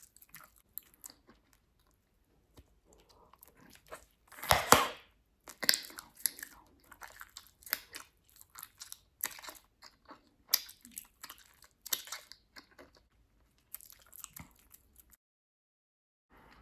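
Bubblegum chewed close to the microphone: irregular wet smacks and snaps of the gum, with one louder, longer sound about four and a half seconds in. It stops shortly before the end.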